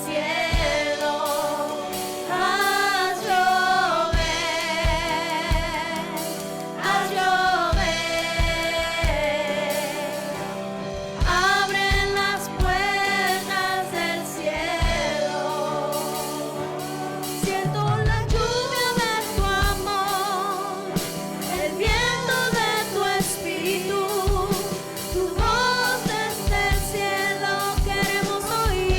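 Live church worship music: a lead singer with strong vibrato over sustained chords, backed by other voices and a drum kit keeping a steady beat.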